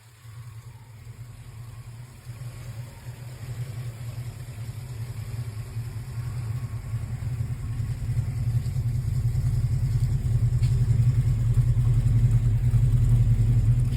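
1964 Chevrolet Chevelle Malibu's built 305 V8 engine running with a deep, steady rumble that grows louder over the first several seconds and then holds steady.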